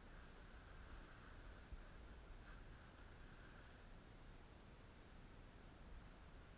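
Faint, very high, thin bird song: a long drawn-out whistle, then a run of short notes falling into a trill, and another long high whistle near the end.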